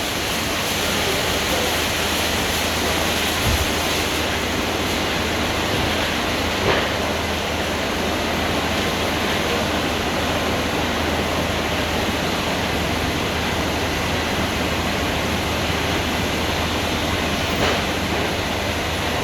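Kleindienst EUROWS tunnel car wash in operation: rotating brushes and water spray make a steady rushing noise over a low machinery hum, with a couple of brief knocks.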